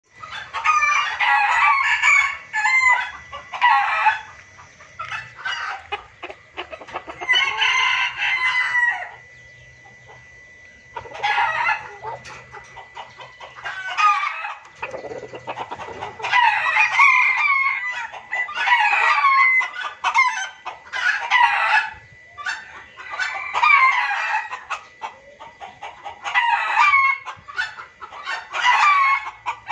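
Junglefowl calling in repeated, noisy bouts of overlapping clucks, cackles and crowing, each bout lasting one to a few seconds with short lulls between. It is a lure call used to draw wild junglefowl in.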